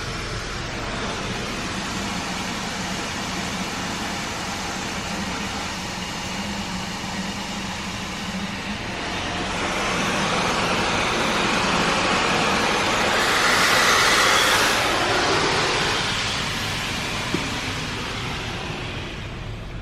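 Automatic tunnel car wash equipment running as the car passes through: a steady rush of noise that swells about ten seconds in, peaks, then fades.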